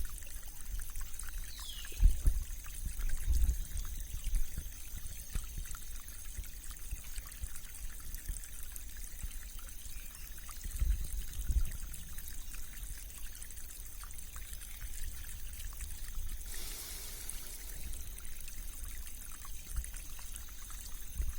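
Rain-swollen stream flowing steadily, with a tinkly rippling and trickling of water. A bird gives one short falling call about a second and a half in, and a few low thumps come early on and near the middle.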